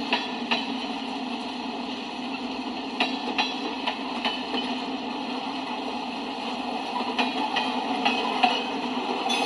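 Freight cars of a CSX manifest train rolling past, mostly covered hoppers: a steady rumble of steel wheels on rail. Sharp clicks and clanks come through it, often in pairs, as the wheels cross rail joints.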